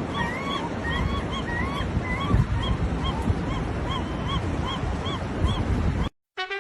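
A bird honking over and over, short rising-and-falling calls about twice a second, over a steady rushing noise.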